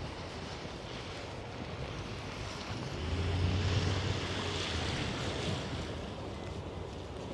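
Outdoor traffic and wind noise on the microphone, with a vehicle passing that swells about three seconds in and fades a couple of seconds later.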